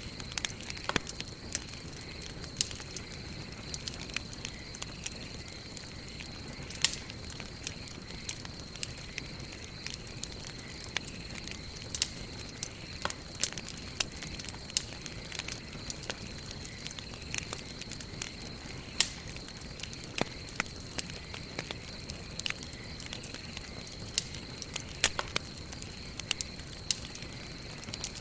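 Wood campfire burning with steady crackling and irregular sharp pops over a low rushing of the flames; the loudest pops come about seven and nineteen seconds in. A thin steady high tone runs underneath.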